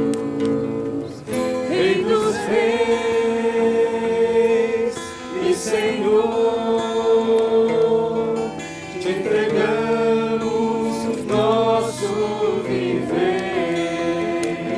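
Congregation singing a gospel worship song with guitar accompaniment, in long held notes.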